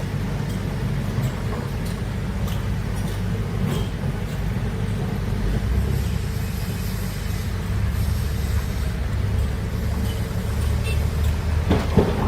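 Large excavator's diesel engine running with a steady low drone, with a few sharper knocks near the end.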